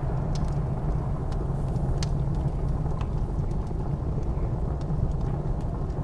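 Wood fire crackling with a few sharp pops over a steady low rumble of blizzard wind.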